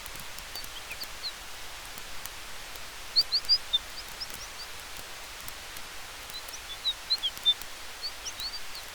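Campfire in a forest ambience: a steady soft hiss with faint crackling ticks, and clusters of short high chirps about three seconds in and again near the end.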